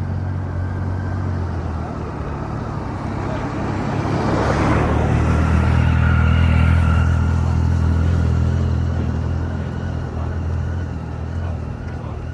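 Steady low engine drone from the airship's propeller engines, growing louder in the middle and then easing off. A brief rushing swell comes and goes about four to five seconds in.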